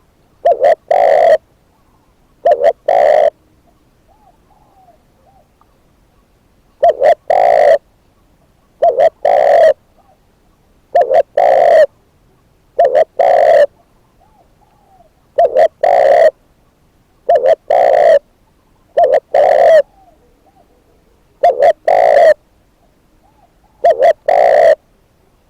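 Spotted dove, a captive decoy bird, cooing loud and close, repeating a short phrase of two or three notes about every two seconds. Fainter coos are heard in the gaps.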